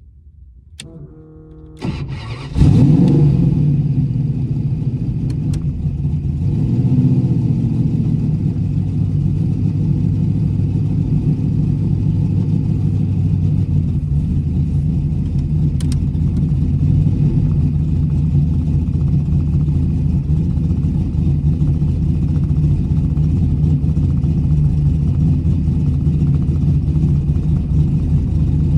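Starter cranking briefly, then the Chrysler Imperial drag car's 318 small-block Mopar V8 catching about two and a half seconds in, heard from inside the cabin. It rises in revs once around seven seconds in, then runs steadily as the car drives off slowly.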